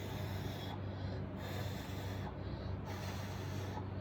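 Handheld hairdryer blowing on wet acrylic paint: a steady electric motor hum, with the rush of air rising and falling about every second and a half as the dryer is swept back and forth.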